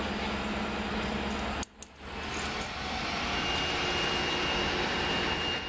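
CSX diesel freight locomotives running as they move through the yard, a steady engine drone with a low hum. It drops out briefly about a second and a half in, then the train's rumble carries on. A thin, steady high-pitched tone comes in about three seconds in.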